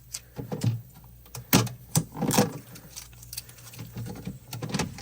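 Handling noise as blue packing tape is peeled off the plastic interior of a mini fridge: irregular clicks, taps and short scrapes, a few louder ones near the middle.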